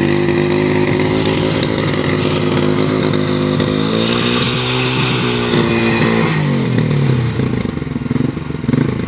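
Motorcycle engine running, its speed sagging and picking up again in the second half.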